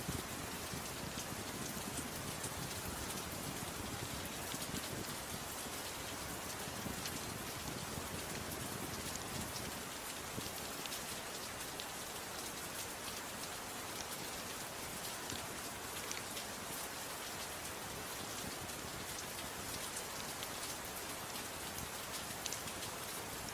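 Steady rain falling, an even hiss with many scattered small, sharp ticks of drops.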